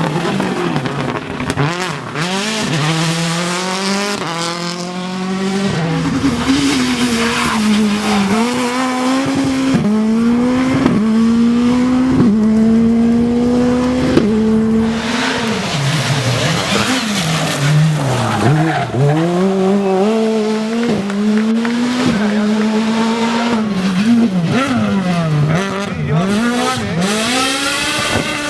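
Rally car engine under hard acceleration, the revs climbing and dropping with each upshift about every two seconds, then rising and falling quickly through downshifts and throttle blips.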